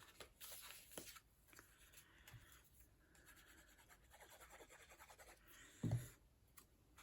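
Faint handling of cardstock: paper sliding and rubbing as a layer is lined up and smoothed down, with a soft thump about six seconds in.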